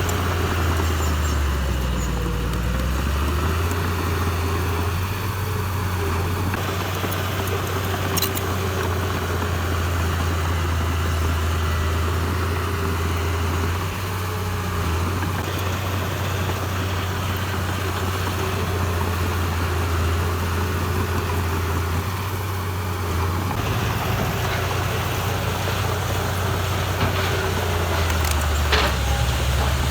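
Heavy machine's diesel engine running steadily at a near-constant speed, with a brief dip in pitch a couple of seconds in.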